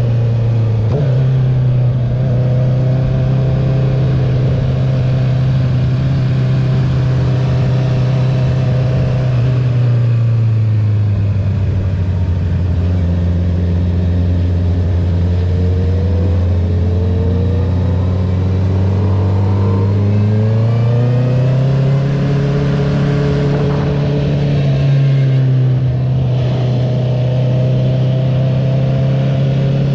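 2021 Honda CB650R's inline-four engine through an Akrapovic titanium full exhaust system, heard on board while riding: a steady drone that drops in pitch about ten seconds in as the revs fall, holds lower, then climbs back up around twenty seconds in.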